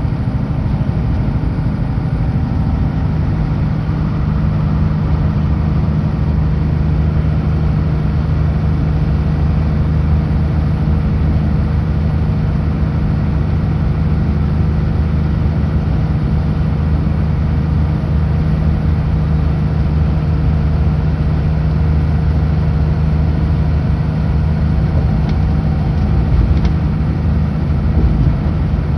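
Kenworth W900L semi-truck's diesel engine running at a steady cruising speed on the highway, a low, even drone with road noise over it.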